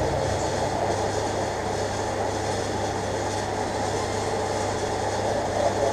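Car engine idling steadily: a low, even hum with no change in pitch.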